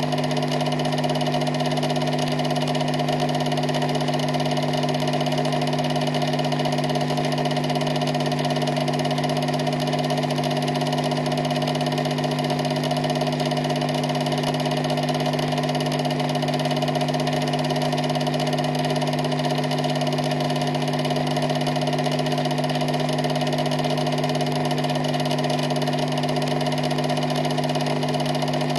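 A steady machine drone holding one unchanging pitch with several constant tones, with no rise, fall or break.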